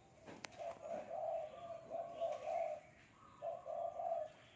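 Spotted dove cooing: a run of low hooting coo notes, a short pause, then a second, shorter phrase. A single sharp click comes just before the first phrase.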